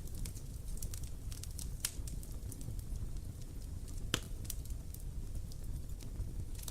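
Wood campfire burning, crackling with irregular sharp pops, two of them louder, about two seconds in and about four seconds in, over a steady low rumble of the flames.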